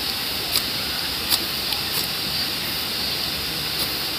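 Steady hissing noise with a few sharp, separate clicks.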